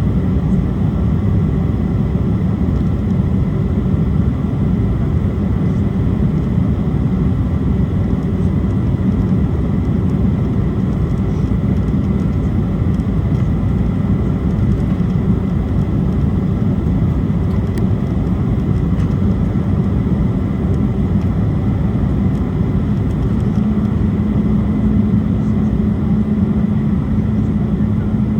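Steady roar of an Embraer E175 regional jet's engines and airflow, heavy in the low end, with a faint high steady tone. A low hum grows stronger about 23 seconds in.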